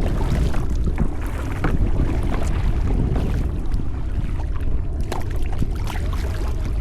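Wind buffeting the microphone in a steady low rumble, with water splashing and dripping around a sit-on-top kayak being paddled.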